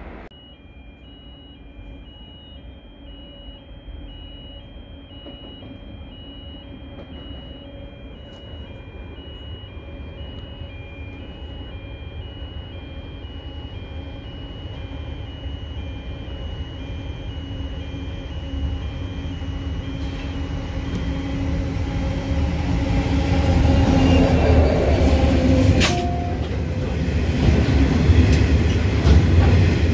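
A train approaching, its low rumble and engine hum building steadily from distant to loud. A high repeating beeping tone sounds through the first two-thirds and then stops. There is a sharp crack a few seconds before the end.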